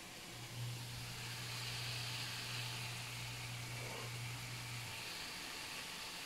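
Faint sizzling of lumpia filling cooking in a wok on the stove, with a steady low hum that starts just after the beginning and stops about five seconds in.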